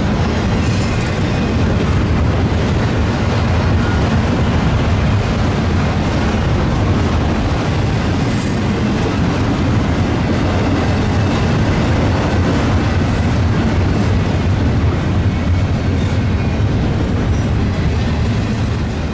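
Double-stack intermodal freight train rolling past: a steady heavy rumble of wheels on rail, with a few brief high-pitched wheel squeals.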